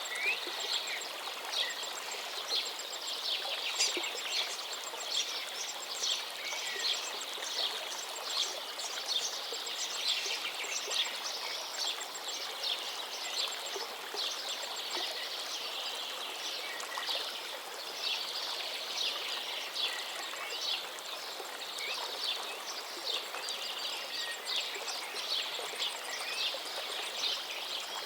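River stream running with a steady rush, and small birds chirping over it in quick, repeated calls.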